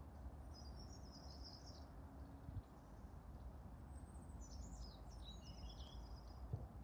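Small songbirds chirping faintly in two short bursts of quick, high notes, over a steady low background rumble.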